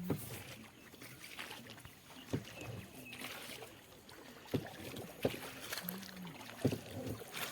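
Small wooden country boat being rowed: a sharp knock of the oar stroke about every two seconds, over faint water and open-air background.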